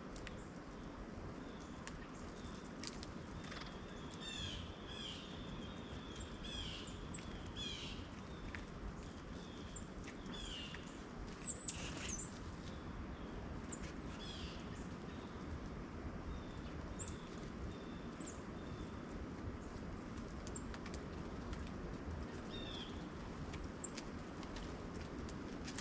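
Birds calling: short chirps and quick runs of repeated notes, busiest in the first half, over a steady low outdoor rumble. A sharp click about halfway through is the loudest sound.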